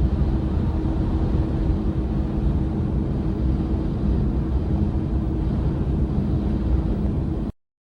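Heavy truck engine and road noise while driving: a steady low rumble with a faint constant hum, which cuts off abruptly near the end.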